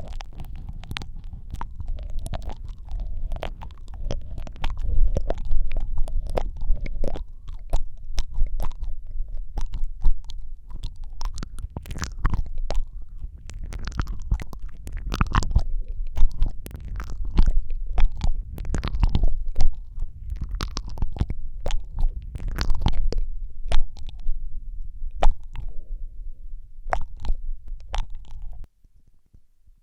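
Close-miked ASMR mouth sounds: a quick irregular stream of wet tongue and lip clicks and smacks over a low rumble, cutting off suddenly near the end.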